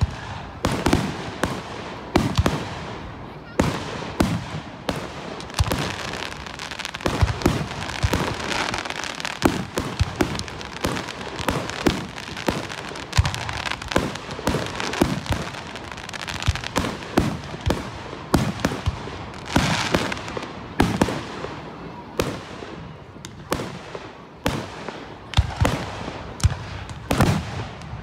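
Fireworks display: aerial shells launching and bursting in quick succession, sharp bangs often several a second over a continuous crackling hiss.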